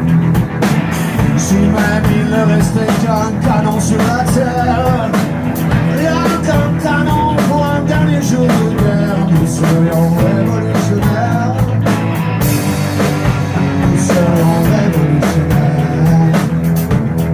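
Live rock band playing, with drum hits keeping a steady beat under guitar and a wavering melody line.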